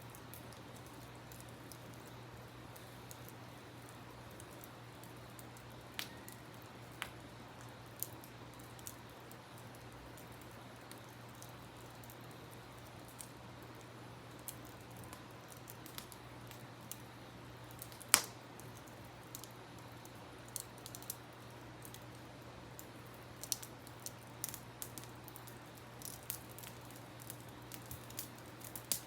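Campfire wood crackling, with scattered sharp pops that come more often in the second half, the loudest about eighteen seconds in, over a faint steady rush of river water.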